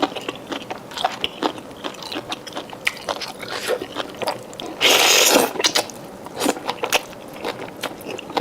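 Close-miked chewing and biting of a mouthful of cooked vegetables, with many small wet clicks and crunches. About five seconds in comes a louder half-second noisy sound.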